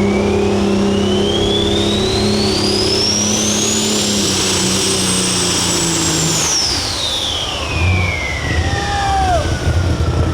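Super stock pulling tractor at full throttle, its engine running hard under a turbocharger whine that climbs for about four seconds and holds. About six and a half seconds in the throttle comes off, the engine drops away and the turbo whine winds down. The pass ends early, short of the 100-foot mark.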